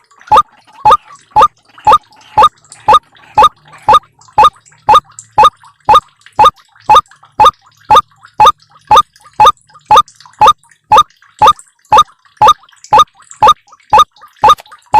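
White-breasted waterhen (ruak-ruak) lure call: a short, rising note repeated steadily about twice a second, the monotonous call used to draw the birds to a snare.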